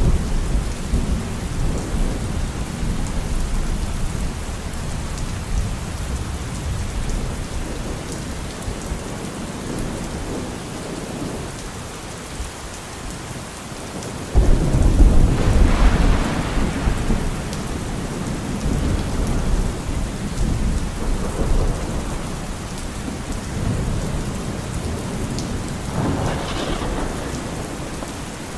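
Steady rain with thunder: a low rumble fading over the first few seconds, a sudden loud thunder roll about halfway through that rumbles away over several seconds, and a smaller roll near the end.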